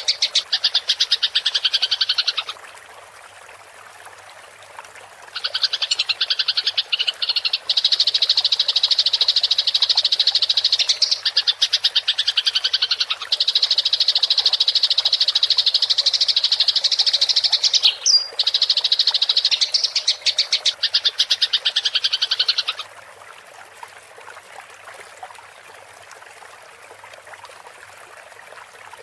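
Eurasian tree sparrow's fast, buzzing rolled chatter, the agitated calls of a fighting bird, in long unbroken runs: one stops about two seconds in, and after a pause of about three seconds a long run goes on until about 23 s in. In the gaps and after it stops there is only a faint steady trickle of water.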